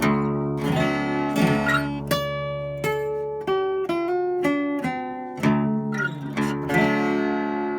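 Taylor 320e Baritone acoustic guitar played fingerstyle: a run of plucked single notes and chords that ends on a last chord, strummed about seven seconds in, left ringing.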